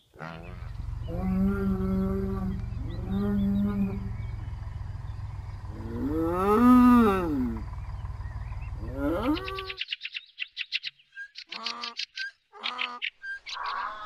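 Cattle mooing: four drawn-out calls, the loudest one rising and then falling in pitch, over a steady low rumble. About ten seconds in, this stops and gives way to a run of rapid high chirps and a few short calls.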